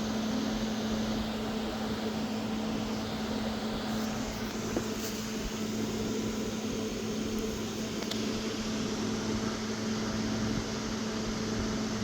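A steady low mechanical hum over a constant hiss, with a couple of faint clicks partway through.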